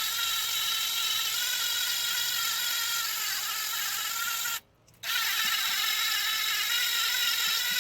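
Power drill spinning a nylon scrub-brush attachment to clean a motorcycle chain: a steady motor whine that stops for about half a second a little past halfway, then starts again.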